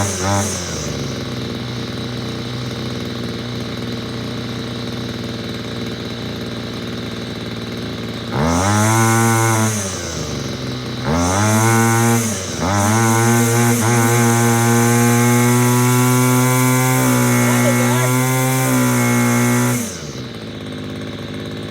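Small two-stroke string trimmer engine idling, then revved three times with the throttle. The third rev is held for several seconds before it drops back to idle near the end.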